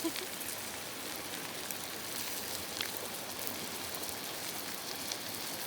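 Sauced pork sizzling on a charcoal grill: a steady hiss with a few faint pops.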